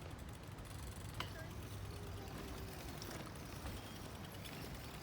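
Riding a Brompton folding bicycle: a steady low rumble of rolling and air noise, with a few light ticks and clicks from the bike.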